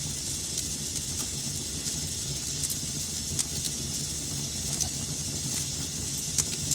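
Wood fire burning in a fireplace: a steady hiss and low rumble with scattered sharp crackles and pops, the loudest pop near the end.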